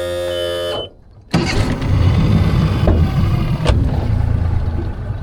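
A boat's motor running while the boat is under way. A steady droning tone in the first second drops out briefly, then a louder low rumble with rushing wind and water noise carries on.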